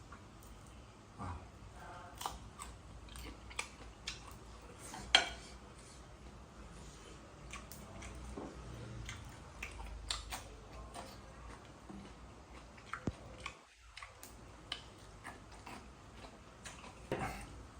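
Someone eating grilled shrimp: quiet chewing with scattered crunches and clicks.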